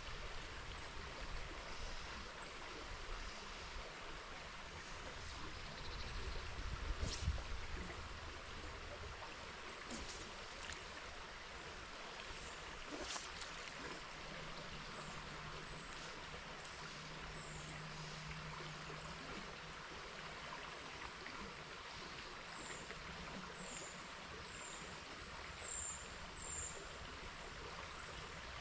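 River water flowing steadily with a constant rushing hiss. Wind buffets the microphone briefly about seven seconds in.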